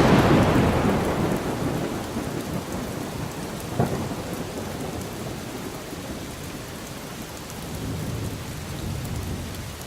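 Thunderstorm: a thunderclap breaks right at the start and rumbles away over several seconds, with a sharper crack about four seconds in, over steady rain.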